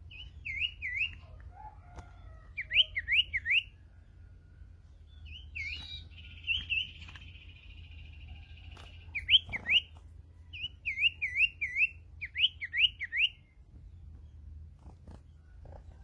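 Sirtu bird calling: quick series of three or four swooping V-shaped notes, several series in a row, with a buzzy trill in the middle.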